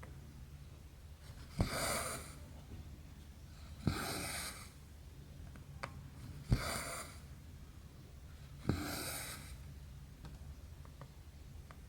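Embroidery thread being pulled through cross-stitch fabric, four times about every two seconds: each stroke starts with a small click as the needle goes through, then a short hiss as the thread is drawn taut. A steady low hum lies underneath.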